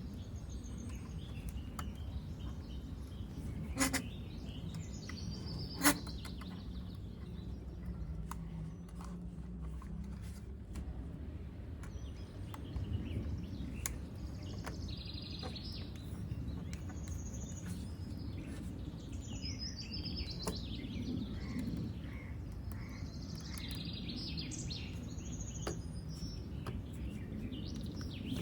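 Birds chirping in short repeated calls over a steady low background rumble, with two sharp clicks about four and six seconds in.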